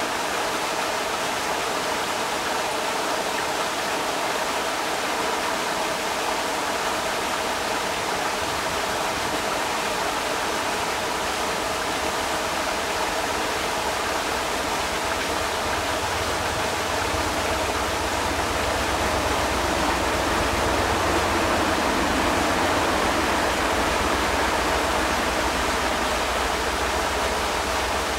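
Creek water rushing steadily over rocks, a continuous even rush. A deeper low rumble joins about two-thirds of the way through, and the sound grows slightly louder.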